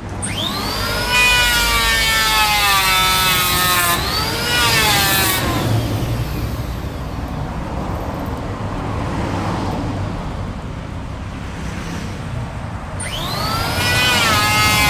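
Electric woodworking power tool cutting wood: the motor spins up with a rising whine, its pitch sags and wavers under the cut, rises again briefly and dies away about five seconds in. The tool starts up again near the end.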